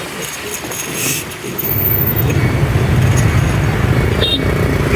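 Motor vehicle engine running, rising to a loud, steady low rumble about one and a half seconds in.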